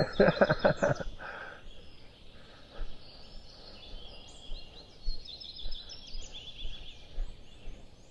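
Small songbirds chirping and trilling in short, quick high-pitched phrases, starting about three seconds in. A short burst of a person's voice comes in the first second.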